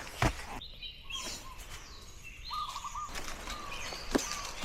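Birds chirping in short high notes, with a quick run of repeated notes past the middle. A sharp click or knock sounds just after the start, the loudest thing here, and another near the end.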